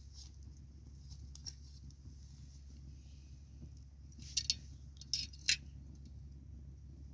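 Wood bonfire crackling, with scattered light pops and a cluster of sharper snaps from about four to five and a half seconds in, over a steady low hum.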